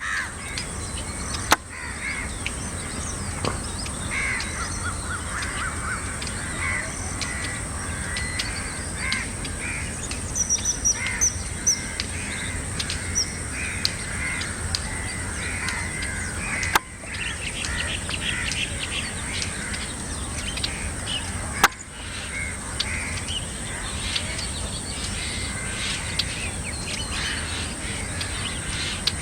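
Several birds calling in short, repeated calls, over a steady high-pitched hiss, with three sharp clicks along the way.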